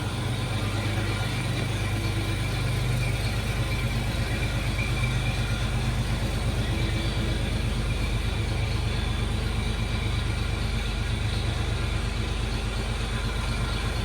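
1955 Chevrolet 3100 pickup's rebuilt straight-six engine idling steadily, getting slightly louder a couple of seconds in.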